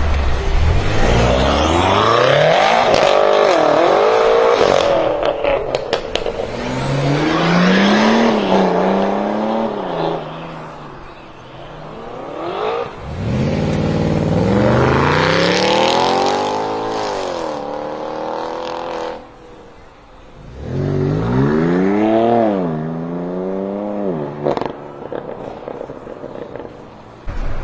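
BMW M6 F06 Gran Coupe's twin-turbo V8 through an Akrapovic exhaust, accelerating hard in about four separate runs, its pitch climbing and then dropping each time. There is a burst of sharp crackles around five seconds in.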